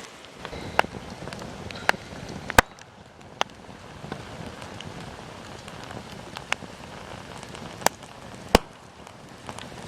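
Burnt-down campfire embers crackling with a soft hiss, broken by seven or so sharp, irregular pops.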